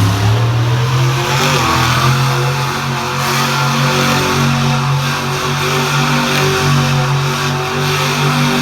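Monster truck engine running loud at high revs, its pitch rising a little about one and a half seconds in and then holding fairly steady with small rises and dips.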